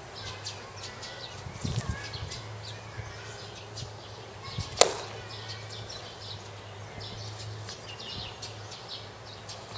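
Small birds chirping over a steady low hum. About five seconds in comes a single sharp snap, the loudest sound here.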